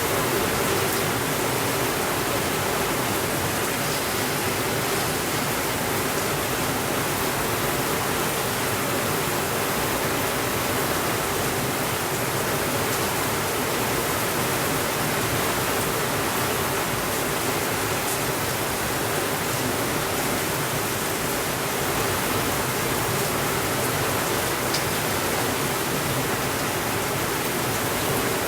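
Heavy rain falling on a window: a steady, even hiss with a few faint ticks.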